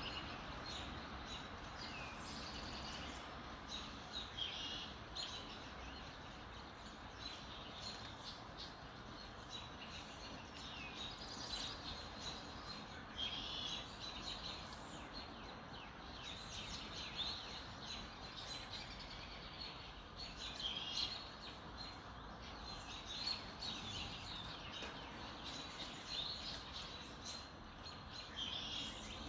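Several small birds chirping and trilling in quick, overlapping high-pitched phrases, over a steady background hiss of outdoor ambience.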